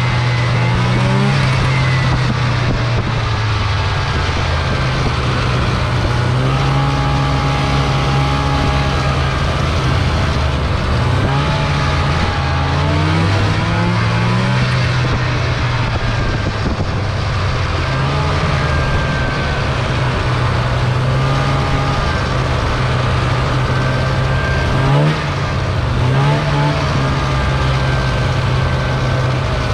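Snowmobile engine running under way, its pitch rising and falling as the throttle is opened and eased off. There is a brief louder knock about 25 seconds in.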